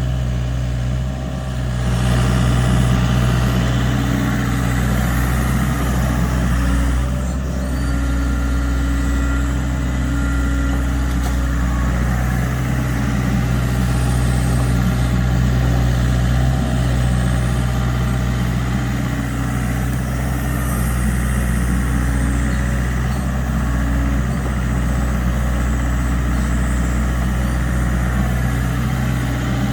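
LiuGong mini excavator's diesel engine running steadily. It gets a little louder about two seconds in.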